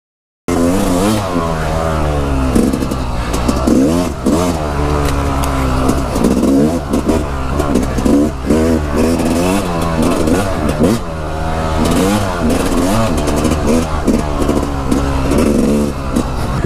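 Several dirt bike engines idling and revving together, their pitches rising and falling over one another. The sound starts abruptly about half a second in.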